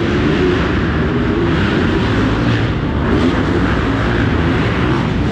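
Several dirt bike engines revving up and down, their pitches rising and falling over one another through a loud, steady din.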